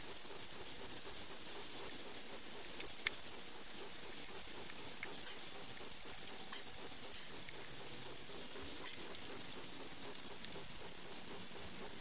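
Irregular light clicks and taps, several a second, from hand tools and small parts being handled, with one sharper click about nine seconds in.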